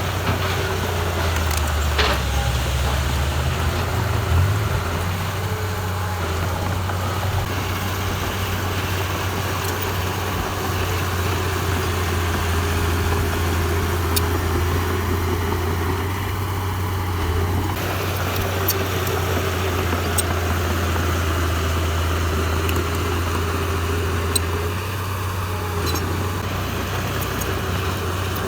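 Diesel engine of heavy earthmoving machinery running steadily with a deep hum, with a sharp clank about two seconds in, another a couple of seconds later, and a few faint ticks after.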